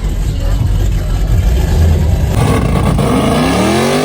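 Car engine running with a loud, rough exhaust rumble, then revving up, its pitch rising steadily through the last second or so.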